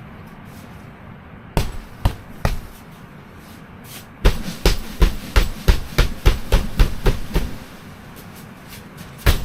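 A run of about ten sharp knocks, roughly three a second, like hammering, with a few single knocks before it and one near the end. Under them runs a steady low rumble of blizzard wind.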